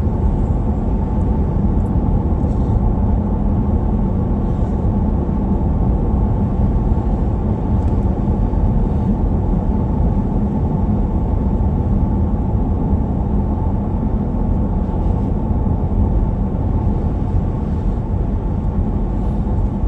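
Steady road and engine noise heard from inside a vehicle cruising at highway speed, a low even rumble with no change in pace.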